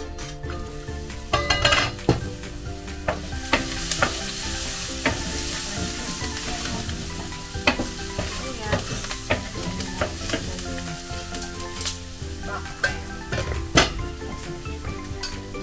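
Garlic and onions sizzling in a stainless steel Saladmaster skillet. Its domed metal lid is lifted with a ringing clank about a second and a half in, and the sizzle grows louder after it. A wooden spoon stirs and knocks against the pan several times.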